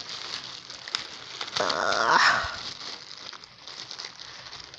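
Packaging rustling and crinkling as the box is handled, with a short dog bark about a second and a half in, the loudest sound.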